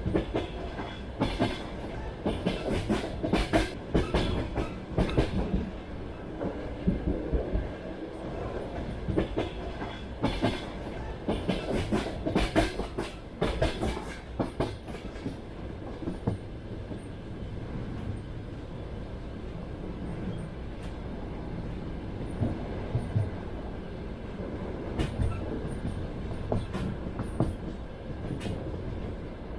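Train wheels clacking over rail joints over a steady running rumble. The clacks come in clusters through the first half and again near the end, with a smoother stretch of rumble between.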